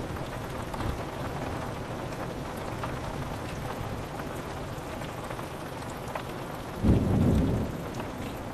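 Steady rain pattering on a window, with a sudden clap of thunder near the end that rumbles low for under a second.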